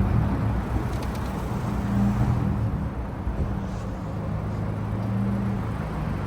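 Car engine idling: a steady low hum that wavers slightly in pitch.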